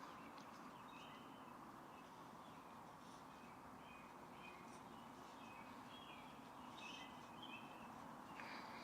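Faint bird calls: short high chirps repeating on and off over a quiet outdoor hush.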